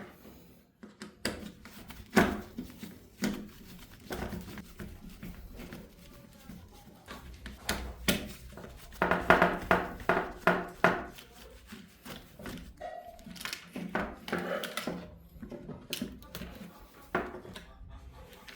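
Irregular knocks, taps and clatter of hard objects being handled, busiest about halfway through.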